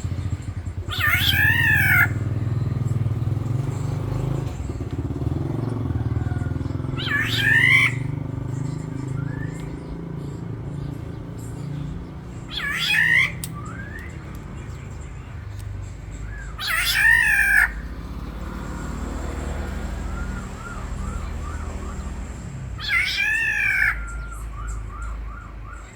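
Black-naped oriole giving five loud calls, each about a second long with a rapid up-and-down rasp, spaced four to six seconds apart: the harsh "ngalas" call used to provoke other orioles into answering.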